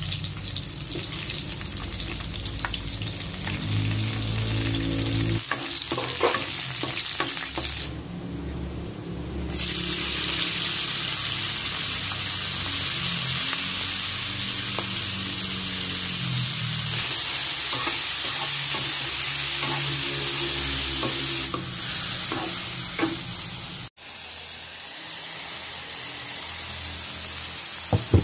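Garlic and then mole crickets sizzling in hot oil in a wok, stirred with a spatula that scrapes and knocks against the pan now and then. The sizzle grows louder and hissier about ten seconds in, once the insects are frying.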